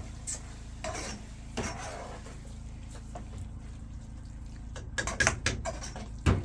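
Clinks and knocks of hard objects being handled, with a quick cluster of them about five seconds in and a sharp knock near the end.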